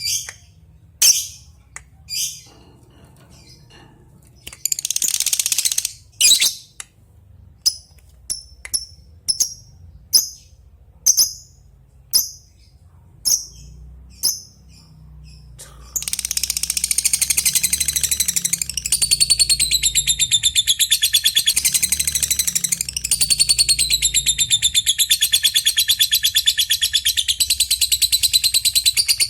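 Lovebird giving sharp single chirps about once a second, then, about halfway through, breaking into a long unbroken rapid chattering trill (the 'ngekek panjang' song).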